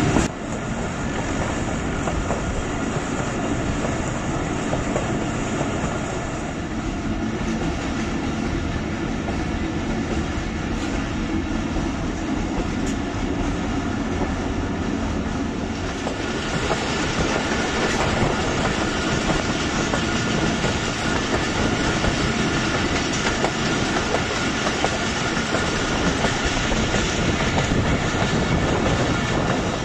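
A moving passenger train's coaches running along the track, heard from an open door of a carriage as a steady rushing rumble. The noise becomes brighter and harsher about halfway through.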